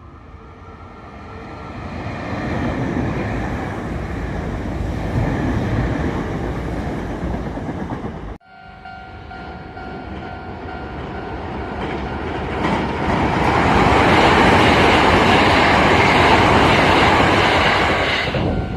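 Trains running past on the rails, in two shots joined by a sudden cut about eight seconds in. The first grows louder over the first couple of seconds and holds. The second carries a steady high tone over the running noise and builds to its loudest in the last few seconds.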